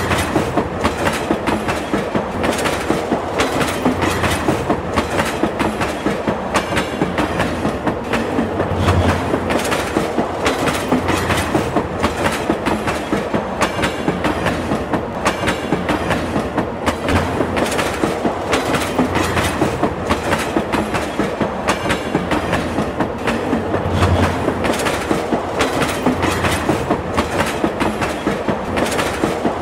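Train running at speed, with its wheels clacking over rail joints in a steady, repeating clickety-clack over a continuous rumble.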